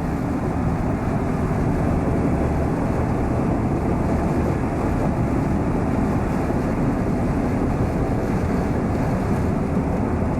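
Steady rumble and hiss of road and engine noise inside a moving car, heaviest in the low end and unchanging throughout.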